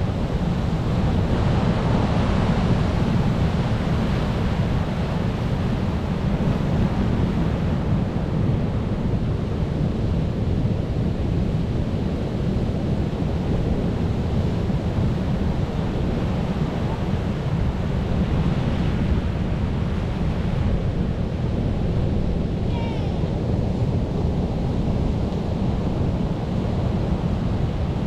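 Sea waves washing continuously with a deep low rumble, swelling a little about two seconds in and again past the middle.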